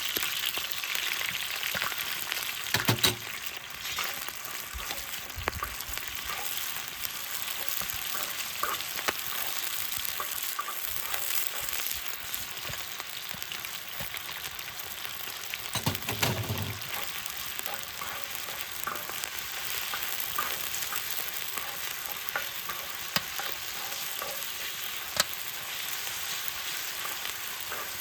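Food sizzling as it fries on a cast-iron cauldron lid over a wood fire, with scattered small clicks. There is a dull thump about three seconds in and another a little past halfway.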